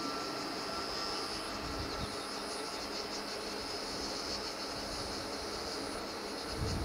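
Distant freight train hauled by a Stadler Eurodual locomotive, heard as a faint steady rumble, with a steady high-pitched buzz over it.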